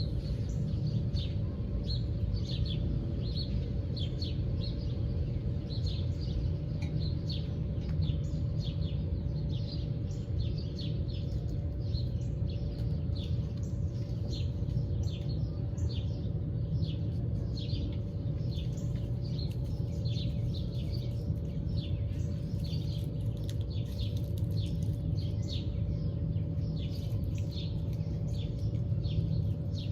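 Small birds chirping, many short high chirps a few each second, over a steady low rumble and a faint constant hum.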